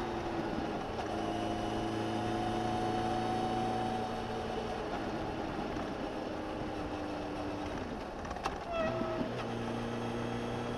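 Suzuki GSX1250FA's inline-four engine running under way, heard through a microphone under the seat, holding a steady note with slow small dips in pitch. About eight seconds in the revs drop, there is a sharp click, and the engine settles at a new steady note, as at a gear change.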